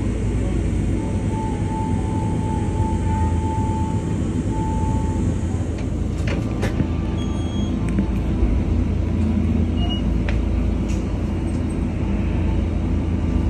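Electric commuter train running along the track, a steady low rumble with a thin steady tone held for about four seconds starting a second in, and a few sharp clicks about halfway through.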